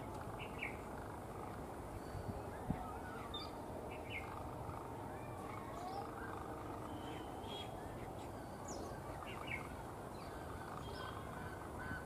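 Scattered short bird chirps and calls over a steady low background hum of open-field noise, with a single sharp click a little under three seconds in.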